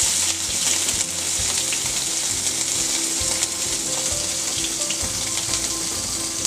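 Curry leaves, chopped green chillies and ginger frying in a little hot oil in a wok: a steady sizzle.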